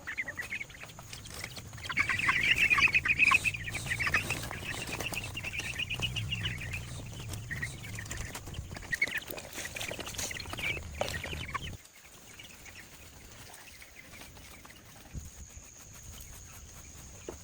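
Chickens clucking, loudest from about two to seven seconds in; the sound drops away suddenly a little before twelve seconds, leaving a quieter background.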